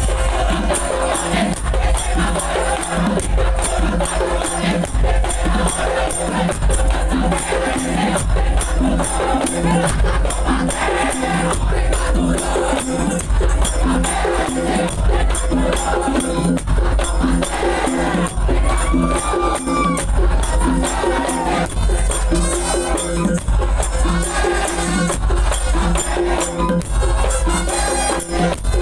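Madurese daul music: a percussion ensemble playing a loud, steady, fast rhythmic pattern of drums and repeating pitched notes, with rattling shakers over it.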